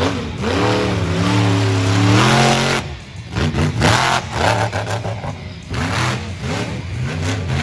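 Monster truck engine revving hard. It holds high and wavering for about two seconds, drops off sharply, then revs up and down in a series of shorter blips.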